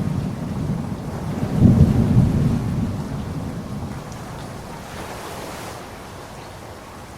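Rain falling steadily with a low rumble of thunder that swells about a second and a half in and dies away over the next few seconds.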